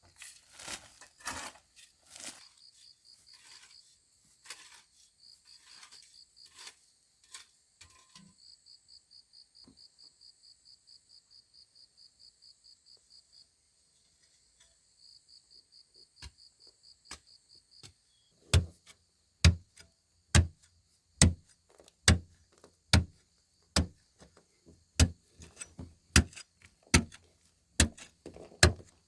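A cricket chirping in a high, fast-pulsing trill, over a few scattered knocks. From about two-thirds of the way in, loud regular blows land about once a second, the loudest sound here, like wood being chopped or struck.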